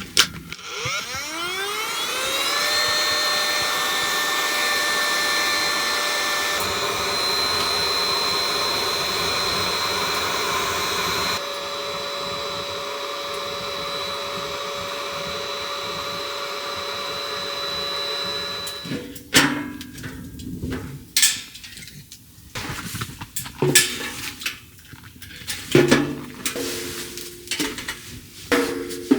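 A small electric motor whirs up to speed with a rising whine and runs steadily for about eighteen seconds, its tone shifting a little a few times, then stops. Light clicks and knocks of kitchenware follow.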